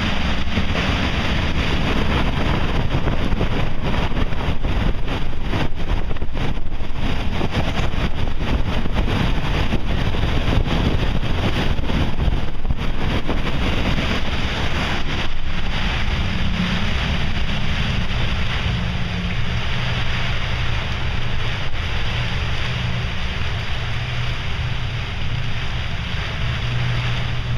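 Gale-force wind gust of about 70 mph buffeting the microphone, a loud continuous rush of wind noise. About halfway through the rush eases slightly and a low steady hum comes through underneath.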